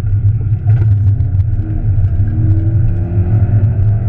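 Peugeot 206 rally car's engine heard from inside the cabin under acceleration, its note rising steadily over the second half, over a heavy low rumble of engine and road noise.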